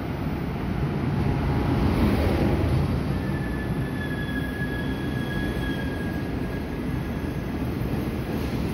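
Chu-kuang express passenger train rolling out of the station: a steady low rumble of wheels on rail, with a thin, high wheel squeal for a few seconds in the middle.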